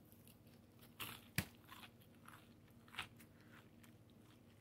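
Faint biting and chewing of food, with a few crisp crunches, the sharpest about a second and a half in and another near three seconds.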